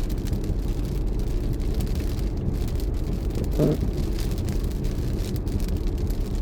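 Car being driven: a steady low road and engine rumble, with a brief louder sound a little past halfway.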